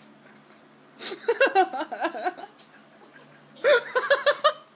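A person giggling and laughing in two short bursts, the second near the end.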